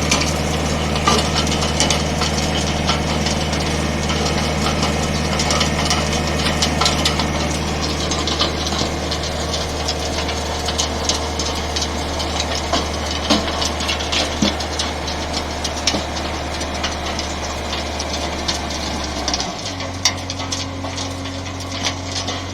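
Skid steer engine running steadily with constant clicking and rattling over it. About 19 seconds in, the engine note changes.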